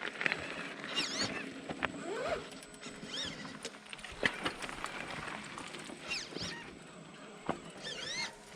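Radio-controlled scale crawler truck's electric motor whining up and down in short throttle bursts, about five times, with a few sharp knocks of the truck against rock.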